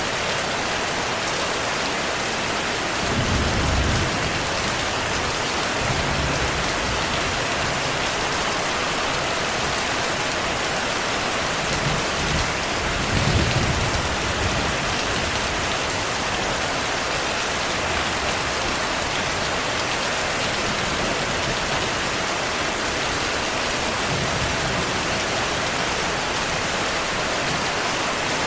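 Steady heavy rain, with low rumbles of distant thunder swelling about three seconds in and again, strongest, around the middle.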